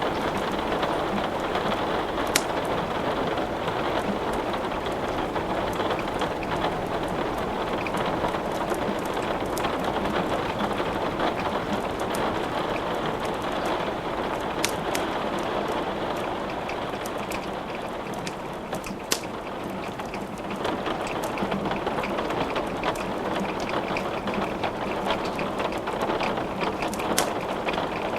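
Steady rain falling, a dense even patter, with a few sharp isolated crackles from burning wood in a fireplace.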